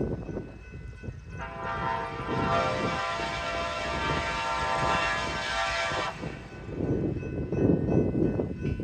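Amtrak train's horn sounding one long blast of about five seconds over the low rumble of the running train; the rumble grows louder near the end.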